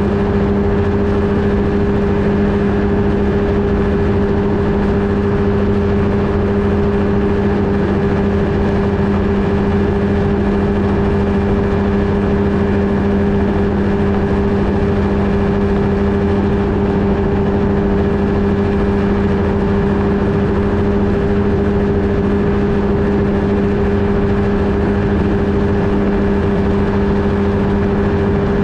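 Flightstar II ultralight's two-stroke engine and propeller running at a steady, unchanging speed, a loud, even drone over a rushing hiss.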